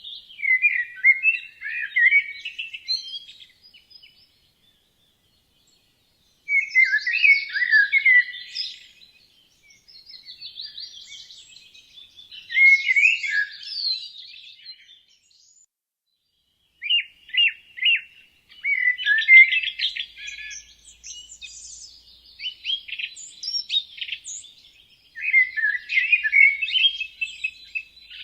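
Songbirds singing quick, warbling phrases of chirps and trills in several bursts, with two brief gaps of silence; the song becomes busier and nearly continuous in the second half.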